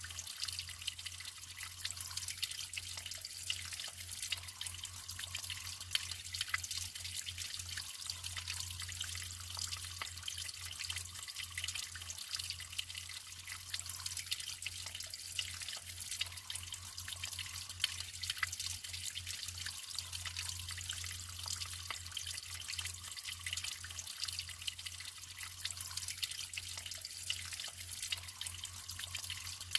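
Natural running water trickling and splashing steadily, a dense patter of small droplets and splashes with no pauses.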